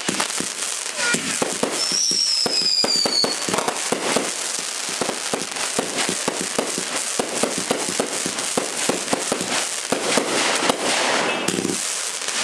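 Fireworks going off in a dense run of rapid cracks and pops, with a high whistle falling slightly in pitch for about a second, some two seconds in.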